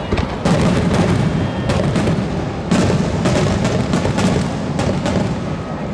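Aerial firework shells bursting in a rapid barrage, booms and bangs following one another over a continuous low rumble.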